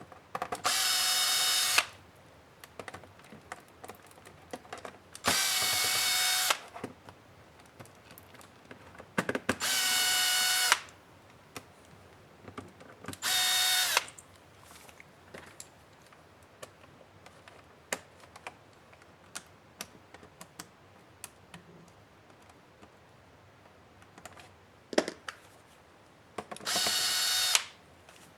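Small electric screwdriver motor running in five short bursts of about a second each, driving out laptop case screws, with light clicks of parts and screws being handled in between.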